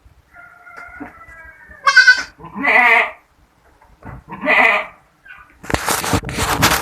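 Goats bleating: fainter calls at first, then three loud, high bleats in quick succession. Near the end there is about a second of broad rustling noise.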